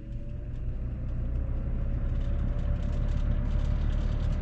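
Lasko box fan's electric motor spinning up on its low setting: a hum that rises in pitch over the first couple of seconds and then holds steady, with a growing rush of air from the blade. This is the motor that is sluggish to come up to speed, freshly oiled.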